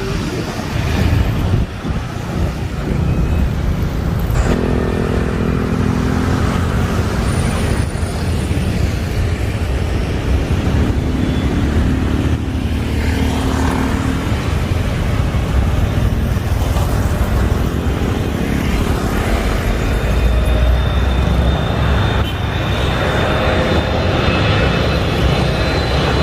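Jet airliner engines rumbling loudly on landing approach, low and close, with steady engine tones that shift in pitch as the aircraft passes. For most of this stretch it is a Boeing 777-300ER with GE90 engines.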